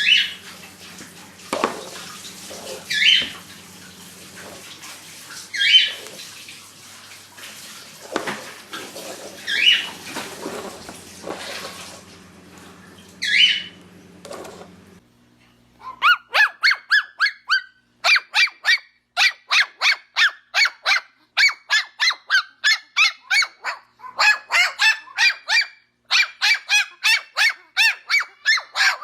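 Parrots calling: about five loud, sharp squawks a few seconds apart over a steady low hum. About halfway through, this gives way to a fast, even run of short repeated calls, two to three a second.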